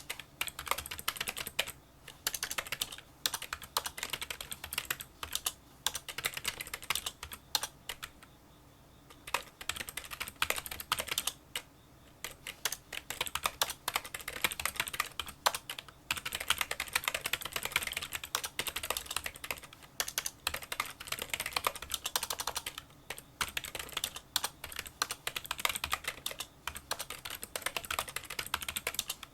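Fast touch typing on a Kinesis Freestyle Solo split keyboard with membrane key switches: a quiet, light clicking in rapid runs of keystrokes, broken by short pauses, the longest about eight seconds in.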